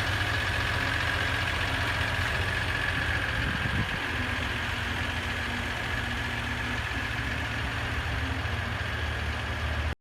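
Ram 1500's 3.0-litre V6 EcoDiesel engine idling steadily, a low diesel rumble with a steady high whine over it.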